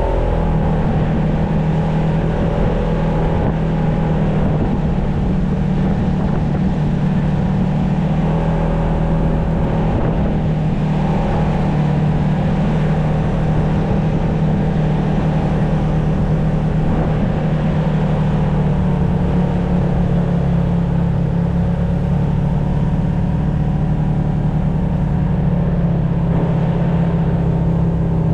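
Off-road vehicle engine running steadily as it drives along a trail, a constant low drone with no break.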